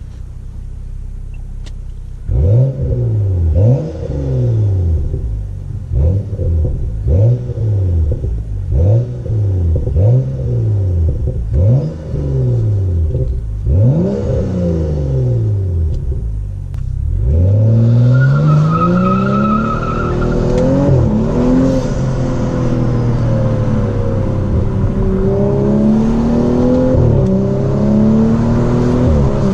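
BMW M235i's straight-six engine through an Armytrix exhaust with its valves open. It idles, then is revved in about eight short blips, each rising and falling. Then comes a longer run of climbing and shifting engine pitch as the car accelerates through the gears.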